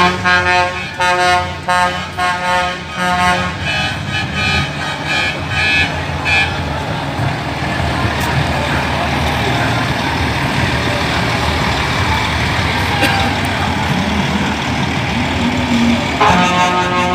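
Truck air horns sounding in a run of short repeated blasts for the first six seconds or so, then a steady noisy din. Another horn blast comes near the end.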